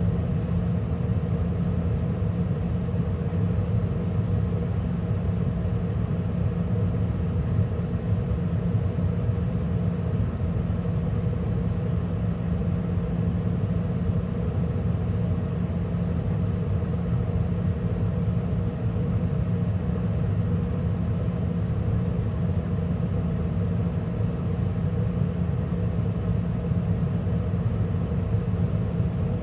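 2013 Carrier gas furnace running steadily mid-cycle, with the burners lit and the draft inducer and circulating blower running: an even rumble with a steady low hum.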